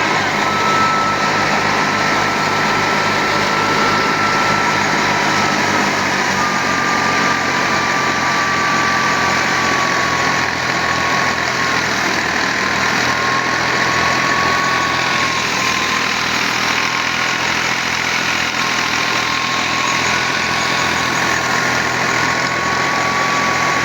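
Al-Ghazi tractor running steadily while driving a threshing machine, with a thin whine above it that wavers slightly in pitch.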